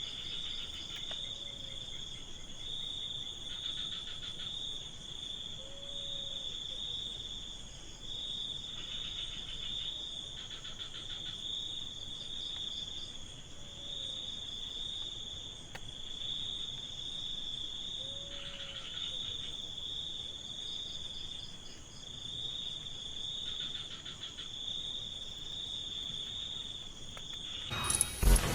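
Crickets trilling steadily, with other insects joining in short buzzing trills every few seconds. A loud knock or rustle comes just before the end.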